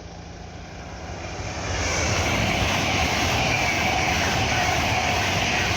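LNER Azuma high-speed train passing at speed: the rush of wheels and air swells up over the first two seconds, then holds loud and steady.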